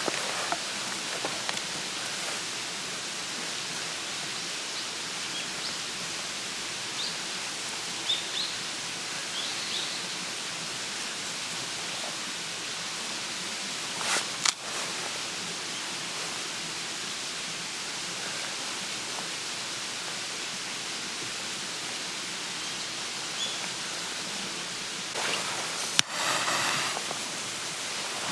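Steady hiss of water, with a few faint chirps and a couple of brief knocks and rustles about halfway through and near the end.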